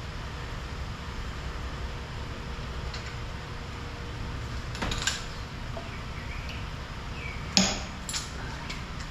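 Metal tools clinking: a few light clicks about five seconds in, then one sharp metallic knock near the end followed by lighter clinks, over a steady low rumble.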